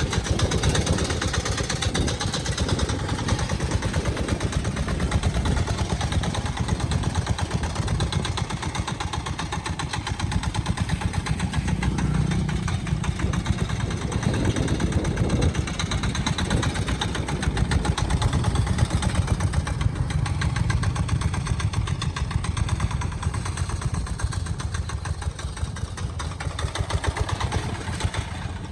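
Small engine of a homemade vehicle running steadily, with rapid even firing pulses.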